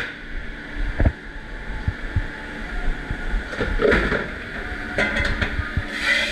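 Dish room noise in a commercial kitchen: a steady machine drone under the clatter of dishes and racks being handled. There is a sharp knock about a second in and more clatter in the second half.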